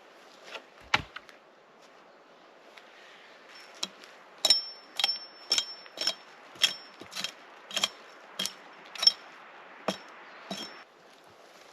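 Blunt throwing axe being used as a hammer: a couple of knocks, then from about four seconds in a steady run of about a dozen blows, roughly two a second, each with a short metallic ring.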